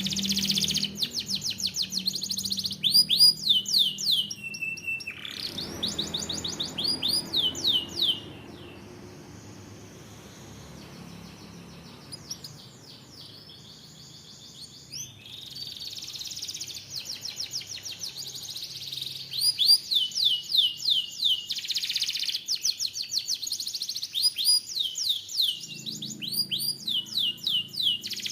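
Canary singing: rapid trills of repeated, quickly falling whistled notes, rolling on in phrases. The song drops to a quiet pause about a third of the way in, then starts up again with more trills.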